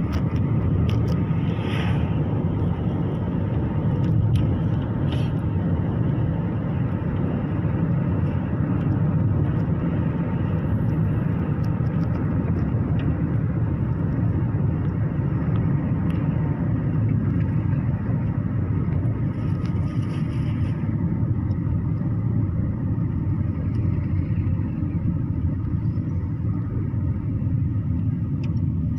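Steady low rumble of a car driving on the road, with a few faint ticks and rattles.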